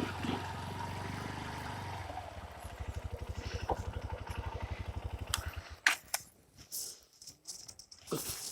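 Honda CRF150's single-cylinder four-stroke engine running, then dropping to a slow idle with distinct, evenly spaced firing pulses before cutting out about five and a half seconds in. A few sharp clicks and knocks follow.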